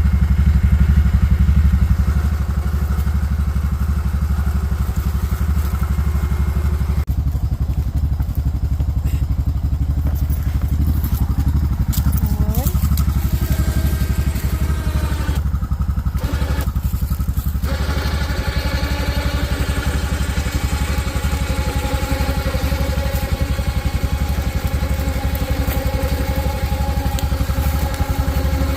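A motor-vehicle engine running steadily with a low, pulsing rumble, with a few knocks and clatters.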